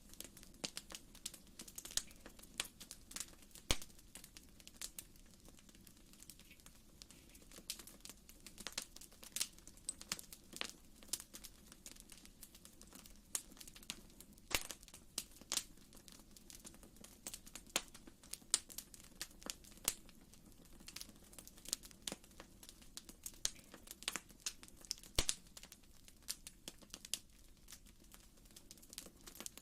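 Wood fire crackling in a fireplace: irregular sharp pops and snaps, several a second, over a faint low rush of flame.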